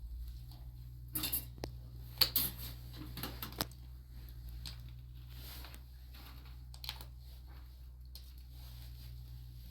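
A run of clattering clinks and knocks, as of dishes or utensils being handled, over a steady low hum; the knocks come in a cluster early, with a few scattered ones later.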